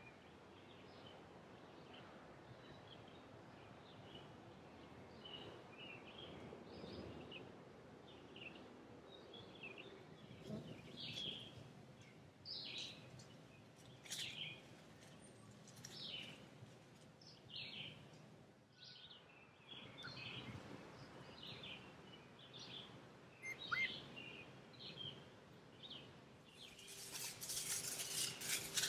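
Small birds chirping again and again over a faint outdoor background. Near the end a louder burst of hissing noise comes in.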